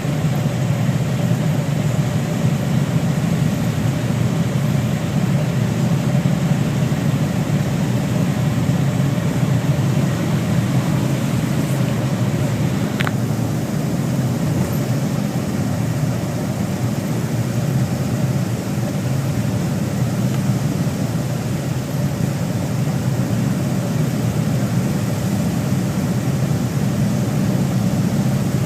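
Engines of a group of motorcycles running together in a steady low rumble.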